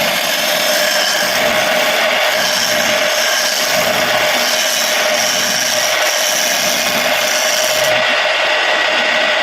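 Homemade wood lathe running, its motor giving a steady whine while a turning tool works against the spinning surian wood, a continuous scraping noise.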